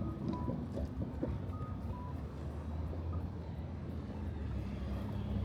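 Low, steady vehicle engine rumble of city street traffic. Over it, an electronic two-note beep, a higher note falling to a lower one, sounds twice in the first two seconds.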